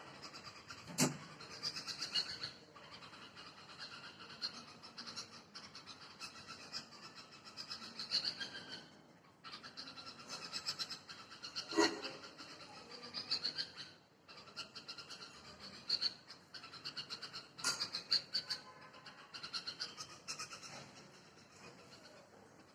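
Red-vented bulbul calling: short, rapid chirpy notes repeated in bursts every second or two, with a few sharp clicks in between.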